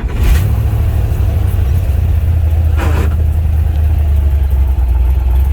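Old black truck's engine idling with a loud, steady, deep rumble, just after being started.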